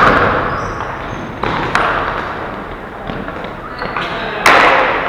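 Ball hockey play: a few sharp knocks of sticks and ball, the loudest about four and a half seconds in and trailing off slowly, over a steady background of rink noise.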